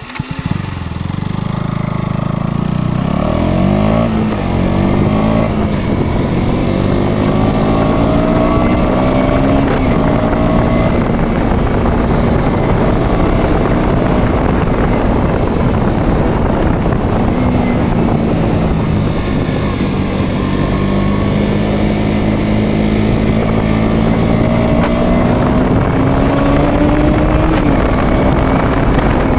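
Motorcycle engine under way, its pitch rising and falling several times as the rider speeds up and eases off, with wind rushing over the microphone.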